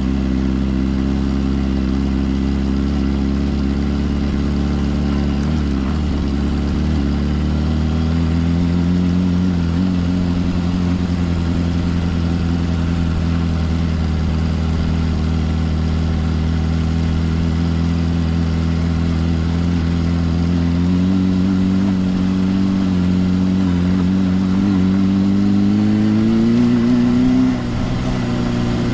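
Suzuki GSR 400's inline-four engine running through a Yoshimura exhaust while riding, holding a steady note for a long stretch. The note climbs under throttle for several seconds near the end, then drops suddenly.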